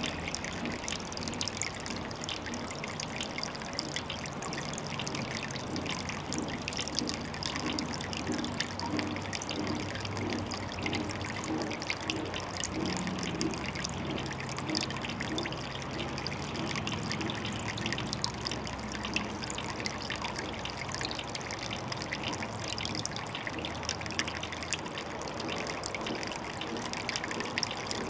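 Water trickling steadily, a continuous fine splashing and crackling.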